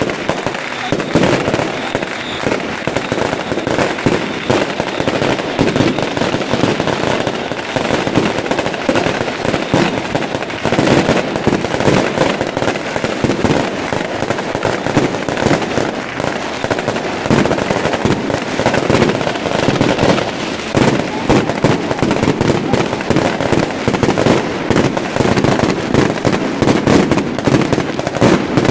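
Fireworks and firecrackers going off in a dense, rapid, continuous crackle with no break.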